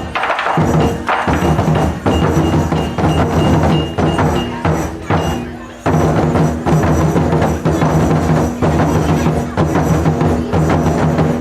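Taiko drums played with wooden sticks, fast loud strikes mixed with sharp wooden clicks, dropping away briefly about five and a half seconds in and then starting again.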